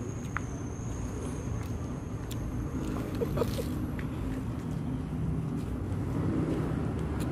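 Raw lettuce leaves being chewed with mouth open to the microphone, giving scattered short crunches over a steady low rumble.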